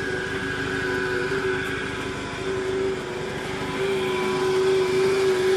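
Motor vehicle engine idling steadily: an even hum with rapid low pulsing and a constant whining tone over it, growing slightly louder toward the end.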